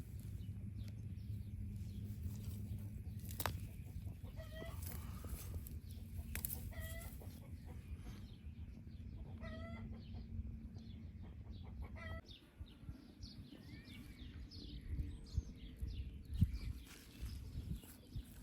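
Domestic hens clucking in short calls every few seconds, with small birds chirping faintly in the background. A low steady rumble drops away about two-thirds of the way through.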